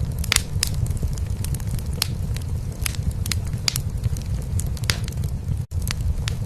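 Wood fire crackling in a fireplace, with frequent sharp pops, over a low, steady cat purr. The sound cuts out for an instant near the end.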